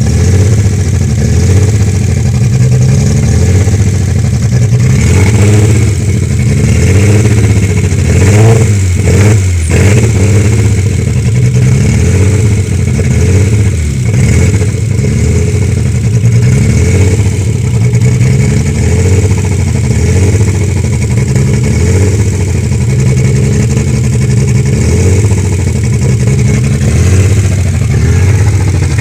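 Kia Carnival petrol engine running on test after an overhaul, with its exhaust detached. It runs steadily, and its speed rises and falls a few times about a quarter of the way in.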